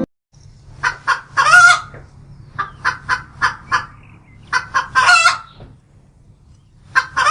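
Hen cackling: runs of short, sharp clucks, each ending in a longer drawn-out call, repeated about four times.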